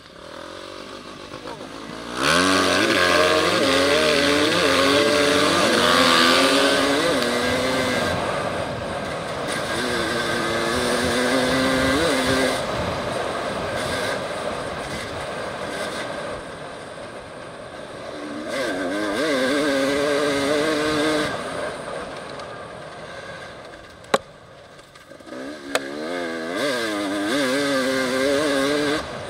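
Enduro dirt bike engine revving hard under acceleration, its pitch climbing in several runs as the rider works up through the gears and dropping between them, over a steady rush of wind and track noise. A single sharp knock about three quarters of the way through.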